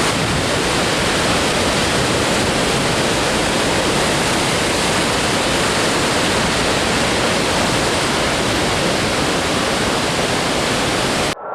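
Steady roar of ocean surf mixed with wind on the microphone. It cuts off suddenly near the end.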